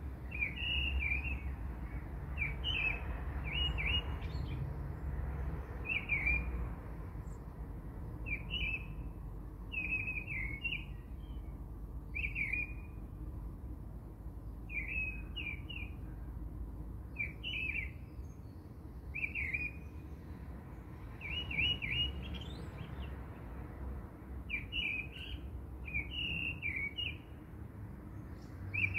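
A small bird chirping in short clusters of quick notes every second or two, over a low steady rumble.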